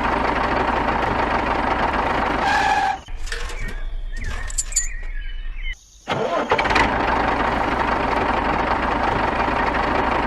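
Engine running steadily with a low hum. About three seconds in it gives way to quieter, scattered sounds for about three seconds, then cuts back in after a brief dropout.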